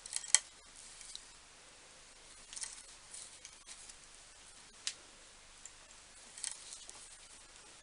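Hand tap being turned slowly to cut a thread in metal: scattered faint clicks and short scrapes, the sharpest just after the start, others every second or two.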